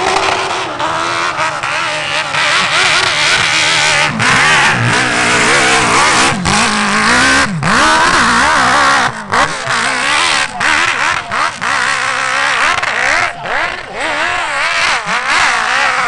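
Dirt bike engine revving hard, its pitch rising and falling constantly, with several brief throttle cuts as it works up a steep hill.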